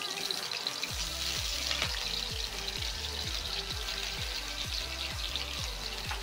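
Carrot pieces sizzling as they fry in ghee in a kadai, a steady crackling hiss. From about a second in, background music with a low, steady, regular beat plays along with it.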